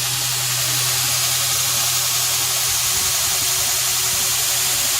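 2x72 belt grinder running unloaded at a steady speed, its motor driven at 50 Hz: a steady belt hiss over an even motor hum.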